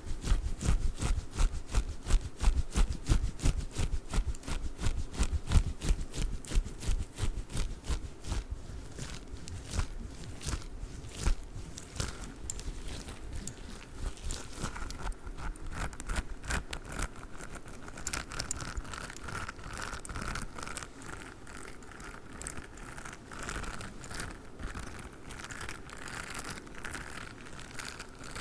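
Fast close-up handling of a squishy durian toy: a dense run of quick taps and scratches, several a second, with heavier thumps in the first half and lighter ticking later.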